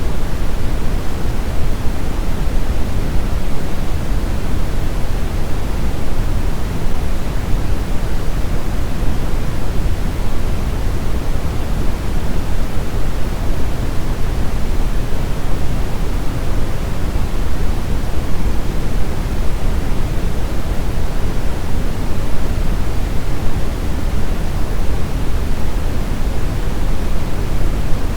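Brown noise: a steady, even rushing hiss weighted heavily toward the deep end, with no tones, clicks or changes.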